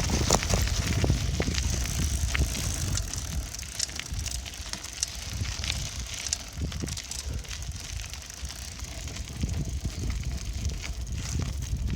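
Bicycle being ridden: a steady low rumble of wind and rolling noise on the microphone, with frequent small clicks and rattles throughout.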